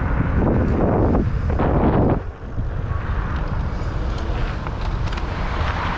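Wind buffeting the microphone of a rider on an e-bike moving at about 16 mph, a steady low rumble with a few stronger gusts in the first two seconds and a short lull just after.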